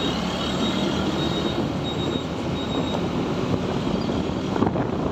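Steady road noise from a moving motorcycle: engine and tyre noise mixed with surrounding traffic. A faint high tone comes and goes.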